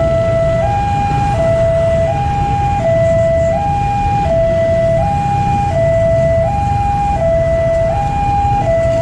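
Railway level-crossing warning alarm sounding a two-tone hi-lo signal, switching between a lower and a higher tone about every 0.7 seconds, over a steady low rumble.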